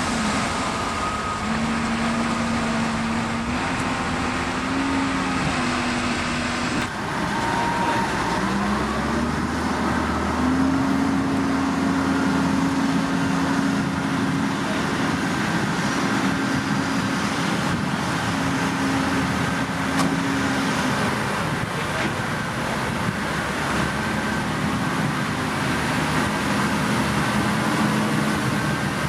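Diesel engines of heavy construction machinery running over a steady din, the engine pitch stepping up and down as they work. The sound changes abruptly about seven seconds in.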